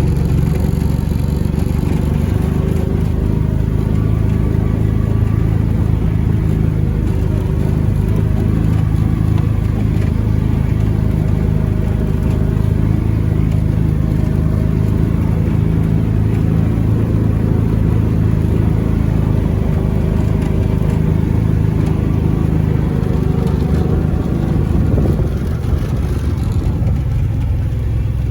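A vehicle's engine running steadily as it drives along, heard from on board. Its note and level dip slightly near the end.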